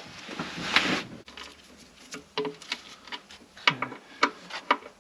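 Sharp clicks and taps of hand tools and parts during work on the engine, after a brief scraping rustle about a second in; the clicks come several in quick succession in the second half.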